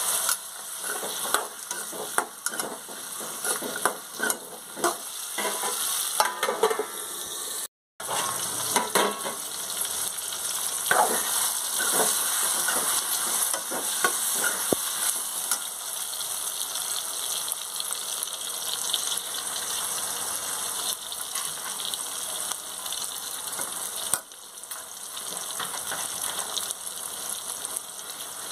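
Cubed potatoes sizzling in hot oil in a metal pan, with a steel ladle scraping and clicking against the pan as they are stirred, the clatter busiest in the first half. The sound cuts out briefly about eight seconds in.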